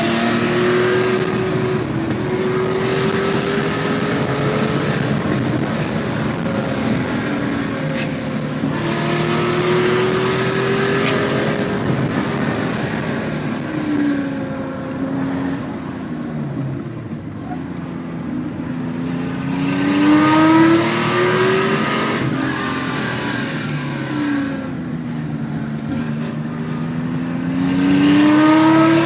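1973 Porsche 911 2.4 S air-cooled flat-six through a SCART exhaust, pulling hard with revs climbing. The pitch drops sharply at each gear change, and the revs fall away when the throttle eases between pulls. This repeats several times.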